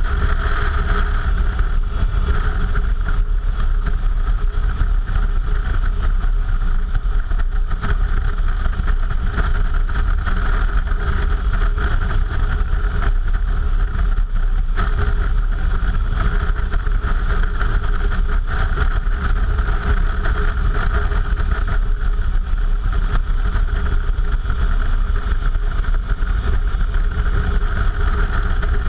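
Suzuki V-Strom motorcycle engine running steadily while riding at an even pace, with no changes in revs.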